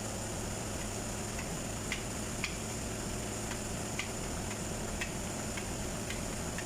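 Faint light ticks, roughly two a second and unevenly spaced, over a steady low hum with a thin high whine.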